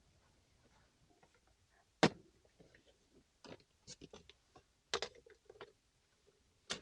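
Camp kitchen gear and cutlery being handled in a container: a sharp knock about two seconds in, a run of lighter clicks and taps, and another knock near five seconds.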